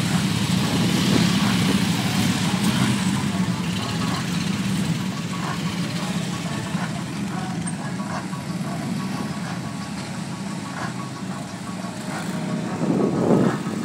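Several police motorcycles running at low speed in formation, a steady low engine drone, with a brief louder surge near the end.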